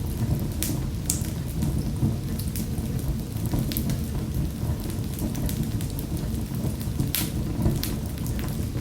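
Fire burning in a fireplace: a steady low rumble of flames with scattered sharp crackles and pops, the loudest pair near the end.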